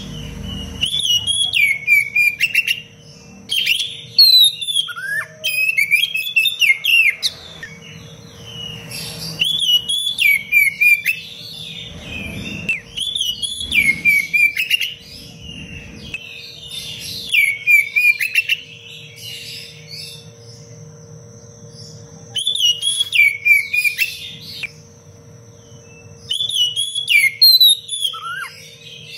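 Oriental magpie-robin (kacer) singing loud, tightly packed song phrases of whistled notes with quick falling sweeps, delivered in repeated bursts of a few seconds with short pauses between them.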